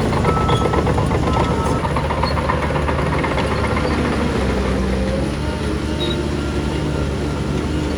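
Heavy diesel earthmoving machinery running steadily with a deep drone, with a rapid metallic clatter over the first couple of seconds.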